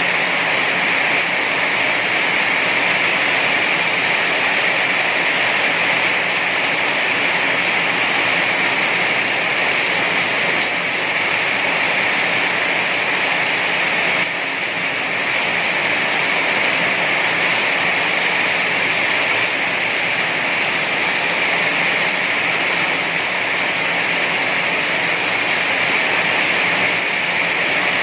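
Heavy rain falling steadily, an even, dense hiss that dips slightly for a moment about halfway through.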